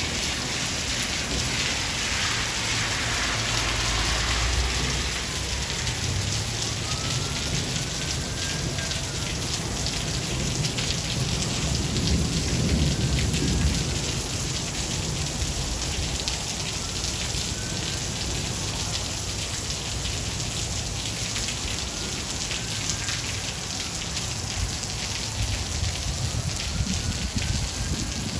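Steady heavy rain falling, with low rolls of thunder that swell about three seconds in and again near the middle.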